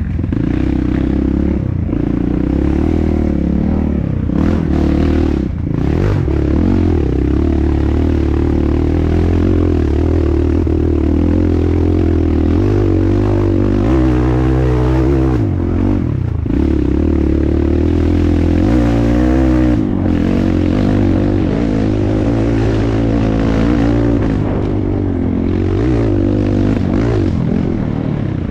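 Dirt bike engine running as the bike is ridden along a trail, its pitch rising and falling with the throttle and briefly dropping away a couple of times.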